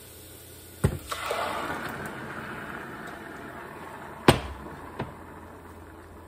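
Blended tomatoes poured into hot olive oil and garlic in a stainless steel saucepan: a sharp knock about a second in, then a burst of sizzling that slowly dies down. Two more sharp knocks come later, the loudest about four seconds in.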